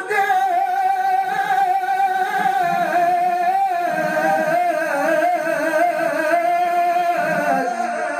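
Male Quran reciter (qari) chanting in melodic tajwid style, drawing out one long ornamented note. The pitch wavers and trills, dipping a little midway.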